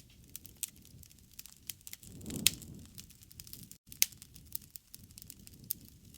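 Wood fire crackling, with irregular sharp pops over a low rushing bed. The loudest pop comes about two and a half seconds in, during a brief swell of low rumble, and another sharp pop comes about four seconds in.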